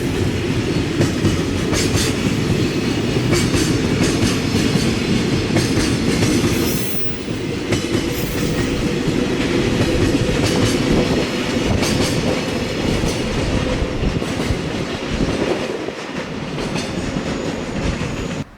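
A train passing close by, running loud and steady, its wheels clicking rhythmically over the rail joints.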